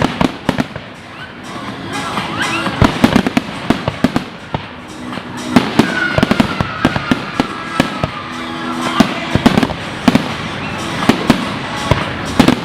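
Fireworks going off in a dense, irregular run of bangs and crackling bursts, with a whistle falling slowly in pitch in the middle, over background music.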